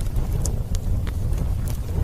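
Fire crackling: scattered sharp pops, several in two seconds, over a steady low rumble.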